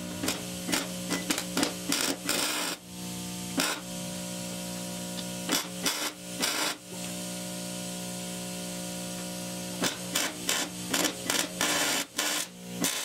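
Metalworking on a homemade steel hub puller: clusters of sharp metal knocks and short scraping bursts over a steady machine hum. The knocks come in the first three seconds, around six to seven seconds in, and again from about ten seconds on.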